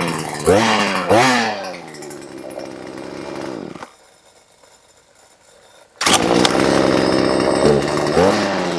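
Husqvarna 240 two-stroke chainsaw engine, freshly rebuilt with a replacement motor, running and being revved in quick blips that fall back toward idle. The sound drops out for about two seconds midway, then comes back suddenly with the saw running, revved once more near the end. By the owner's account it runs pretty decent.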